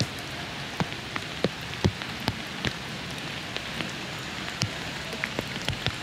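Steady rain hissing, with frequent sharp taps of single drops landing close by, several a second at irregular spacing.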